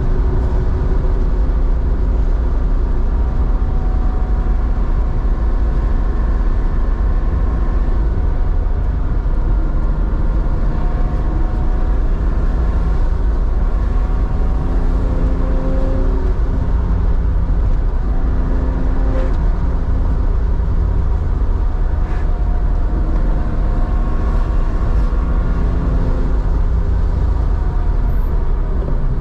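Air-cooled flat-six of a 1987 Porsche 911 3.4 with a SCART two-into-one muffler, running steadily on the road with a heavy low rumble, its pitch drifting gently up and down as speed changes.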